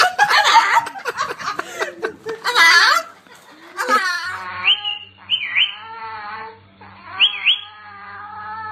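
Parrot vocalising: a string of voice-like squawks, then, after a cut about four seconds in, drawn-out whining calls with quick down-and-up pitch sweeps over a steady low electrical hum.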